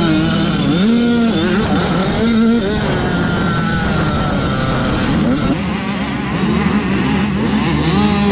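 85cc two-stroke motocross bikes racing, their engines revving up and down in pitch as they go through the gears; near the middle one pitch drops as a bike goes past.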